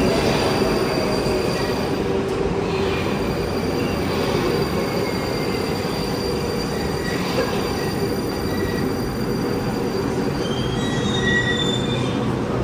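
Moscow metro train of the MetroWagonMash 81-775/776/777 type running on the rails: a steady rumble of wheels and running gear, with thin high wheel squeals coming in now and then and strongest near the end.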